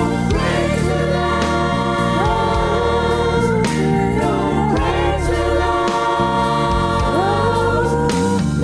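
Gospel music: a choir singing sustained, sliding lines over steady instrumental accompaniment.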